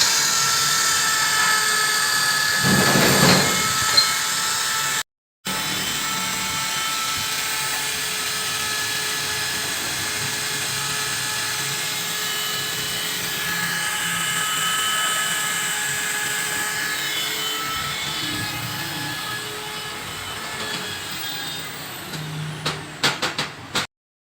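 Electric drill running steadily, used to scrub dirt and deposits off a motorcycle cylinder head and piston. The sound breaks off for a moment about five seconds in, then carries on.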